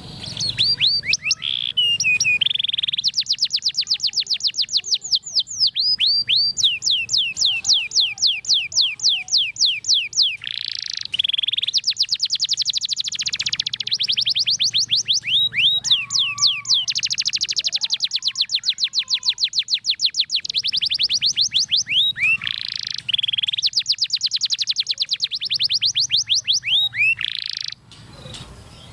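Domestic canary singing a long, unbroken song of rapid high trills, repeating one short note many times a second and switching from one roll to the next. It stops about a second before the end.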